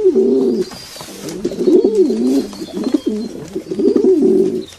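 Pigeon cooing: a series of low, warbling coos in several short phrases.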